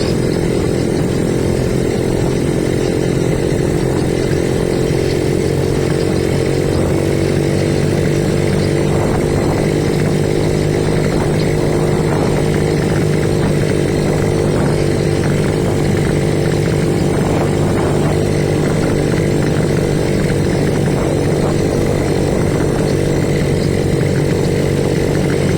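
Small single-cylinder motorbike engine running at a steady, fairly high speed while being ridden.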